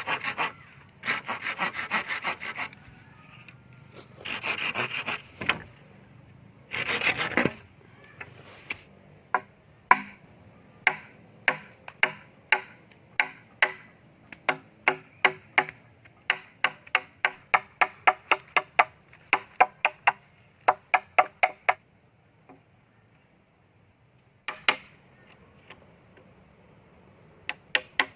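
Wood being hand-sawn in a few short bursts, then a long run of sharp knocks on wood, about two to three a second, with a fast run of knocks again near the end.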